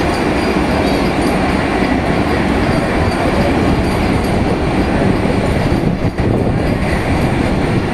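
Vande Bharat Express train running, a loud, steady rush of rolling and running noise.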